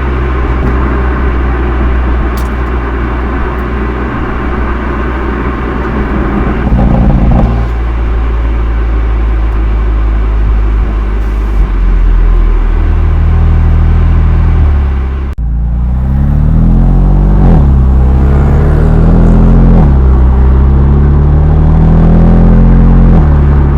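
BMW M2 Competition's 3.0-litre twin-turbo inline-six heard through its stock exhaust: it holds a steady note for about fifteen seconds, then, after a brief drop, it revs up and down several times. The recording is slightly distorted from microphone overload.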